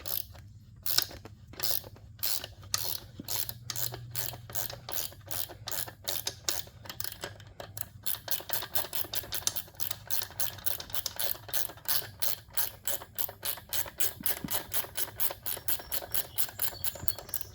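A 12 mm ratchet wrench clicking in a long, even run of sharp ratchet clicks, a few a second and closer together in the second half, as the nut on a dirt bike wheel's bead lock is turned.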